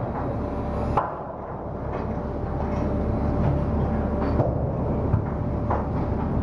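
Anchor windlass hauling in the anchor chain: a steady machine hum with a faint steady tone, broken by about five sharp, irregular metallic clanks of the chain.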